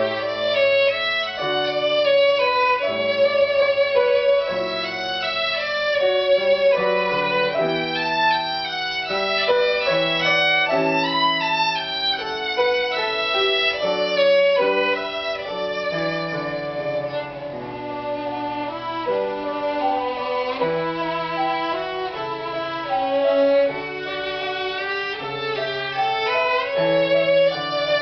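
Instrumental music: a violin plays a melody of held notes with vibrato over a lower sustained accompaniment.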